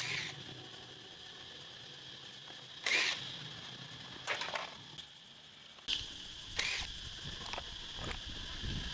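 Scattered clinks and knocks of hand tools and metal engine parts being handled, each one short and sharp, with the loudest about three seconds in. A steady high-pitched hum runs underneath.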